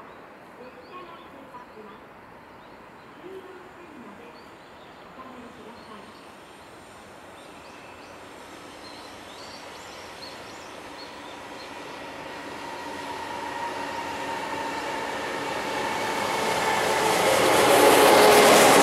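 JR Freight EF210 electric locomotive hauling a container freight train up a gentle grade, approaching and growing steadily louder over the last ten seconds or so, with a steady whine, until it is passing close by at the end.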